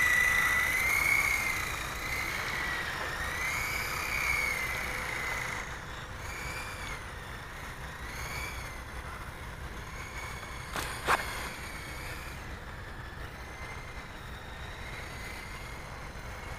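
Small electric RC helicopter, a Blade 180 EFL with counter-rotating rotors, whining in flight, its pitch rising and falling as the throttle changes. It grows fainter after the first few seconds, and there is one brief click about eleven seconds in.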